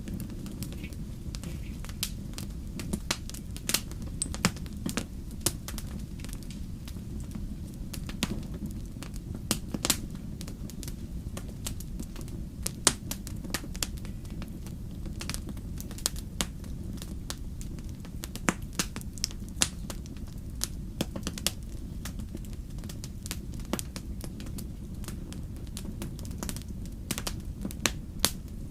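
Wood fire crackling: sharp, irregular pops and snaps, several a second at times, over a steady low rumble.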